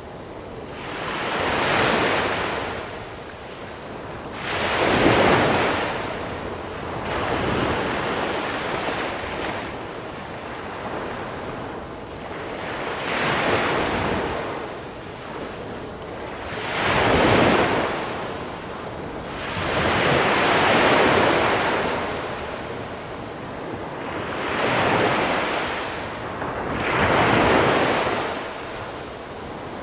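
Sea waves breaking on a small-pebble beach, each wave rising to a hiss and falling back, about eight of them at intervals of three to four seconds.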